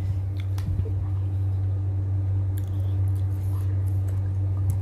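Chewing with a few soft, wet clicks and squishes as saucy fried chicken is eaten, over a steady low hum.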